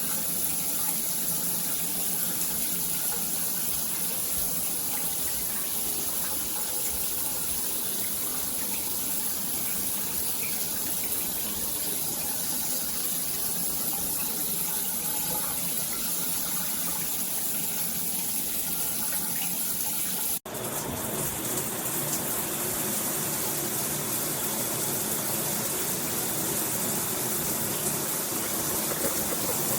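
NERDON shower head spraying water, a steady rushing hiss. It cuts out abruptly for an instant about twenty seconds in, then carries on with a brighter hiss.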